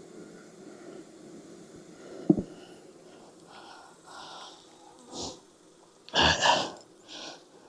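Low hum of honeybees around an open hive, with a sharp knock about two seconds in as the hive's wooden parts are handled. Then come a few short breathy puffs, the loudest a pair near the end.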